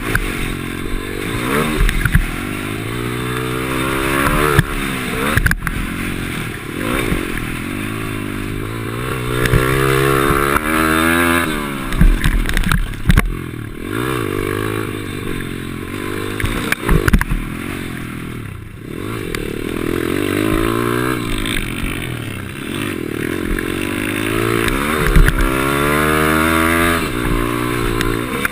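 Pit bike engine recorded onboard, revving up and dropping back again and again as the rider accelerates and rolls off around the track. A few sharp knocks cut through the engine sound.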